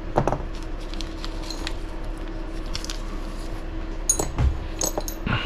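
Small parts being handled on a workbench: scattered light clicks, with a couple of sharp metallic clinks about four and five seconds in, over a steady low hum.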